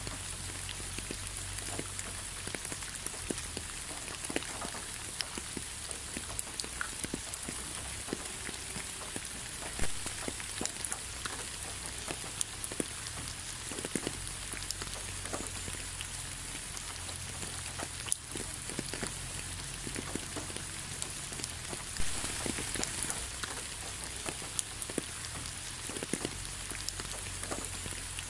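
Steady rain falling, an even hiss dotted with many separate drop ticks, a few of them louder, around a third of the way in and again twice later. A faint low hum runs underneath.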